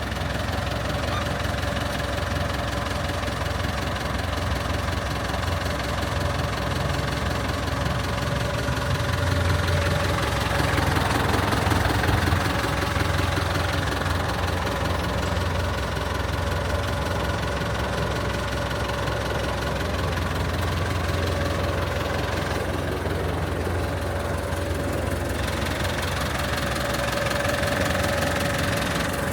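Ford 6640 tractor's diesel engine running steadily, louder for a few seconds near the middle.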